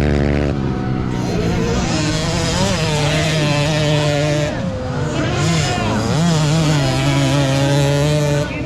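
Several motocross dirt bikes' engines revving, their pitch rising and falling over one another as they race.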